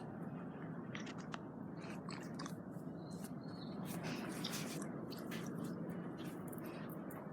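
A dog chewing: irregular, crisp crunching clicks over a steady low background noise.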